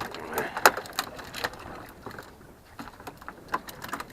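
Irregular sharp clicks and knocks in quick succession, with a louder one just over half a second in.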